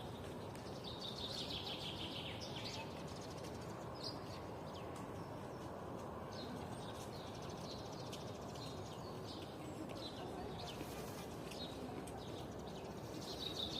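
Songbirds singing: a dense song phrase about a second in and another near the end, with scattered short chirps between, over a steady low background noise.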